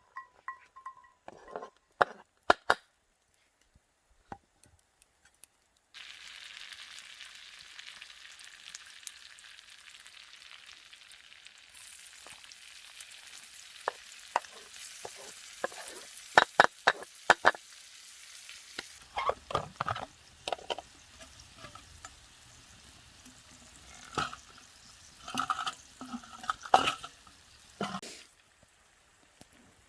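Food sizzling in a metal pan, with clinks and scrapes of a utensil stirring it.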